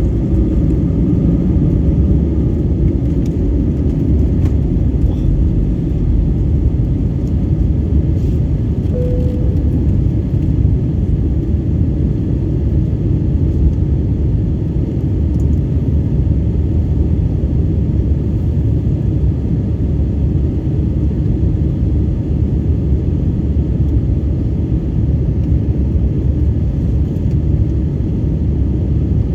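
Steady low rumble of an Airbus A320neo's engines, even in level throughout, with a short single tone about nine seconds in.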